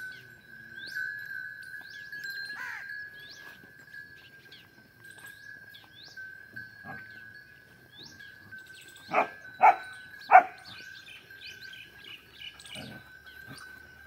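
Small birds chirping, short rising calls repeated every second or so, over a steady high-pitched tone. A little past the middle come three loud short calls in quick succession.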